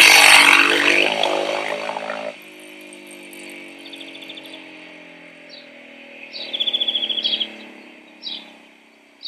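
Small birds chirping, with short high notes that drop in pitch and two rapid trills, over a faint steady hum. Before them, a loud sound made of several steady tones fades and then stops abruptly just over two seconds in.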